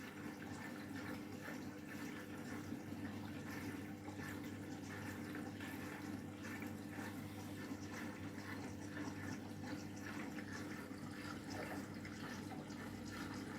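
Candy washing machine filling with water for its final rinse, water running steadily into the drum and flushing in the fabric conditioner, over a steady low hum.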